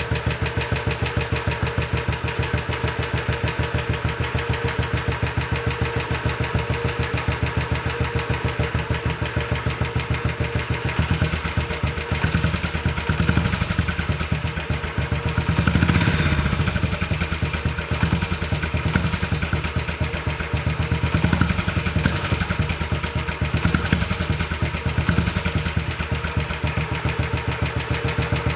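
Small minibike engine running through its newly built exhaust, mostly at idle. In the second half it is revved briefly several times, the strongest rev about halfway through.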